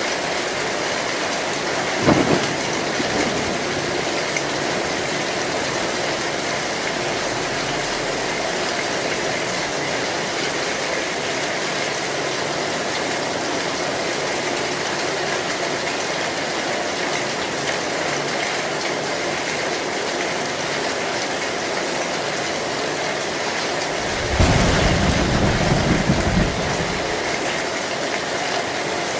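Heavy rain drumming steadily on a metal zinc roof, with a short thunderclap about two seconds in and a longer, loud low rumble of thunder near the end.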